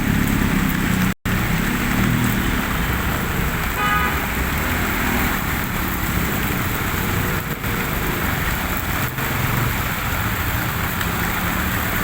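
Heavy rain hissing down on a busy road, with the low rumble of slow-moving car and motorcycle engines underneath. A short vehicle horn toot sounds about four seconds in, and the sound cuts out for a moment about a second in.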